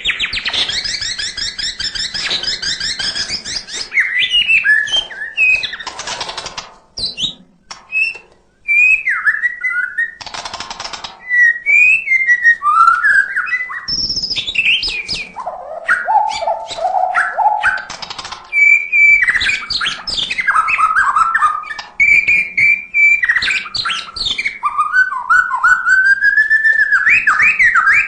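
White-rumped shama (murai batu) singing a long, varied song of rich whistles, fast trills and harsh rattling notes, packed with phrases mimicked from other birds. The song is continuous apart from a short break about eight seconds in.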